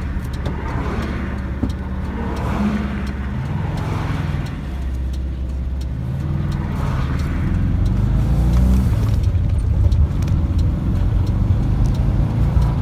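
Newly installed VW bus engine pulling the van uphill at highway speed, heard from inside the cab with wind and road noise. The engine note climbs twice, with wind rush swelling and fading.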